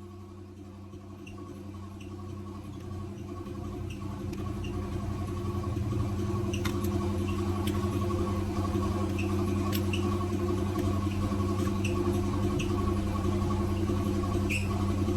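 A steady low mechanical hum, growing louder over the first few seconds and then holding, with scattered faint light ticks.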